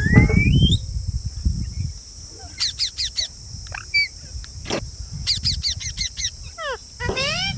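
Pet green parrots calling: a rising call at the start, then several quick runs of short, shrill chirps in the middle and near the end. A low rumble sounds under the first couple of seconds.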